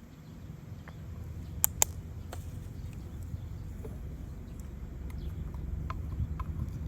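Wind rumbling on the microphone, low and uneven, with two sharp clicks close together a little under two seconds in and a few fainter ticks later.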